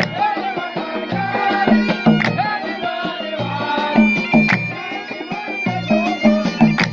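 Traditional Gulf sea folk music (fann al-bahr) played by a troupe: low drum strokes keep a steady beat under a wavering melody line.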